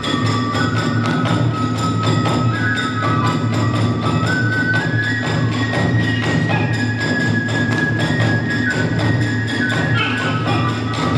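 Kagura hayashi ensemble playing: a flute melody moving in held steps over a fast, even beat of drum and small hand cymbals.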